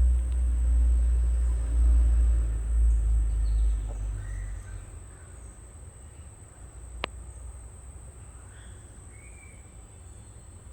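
A low rumble that fades out after about four or five seconds, under a steady high-pitched whine with a few faint chirps. About seven seconds in, a single sharp pop from the phone case.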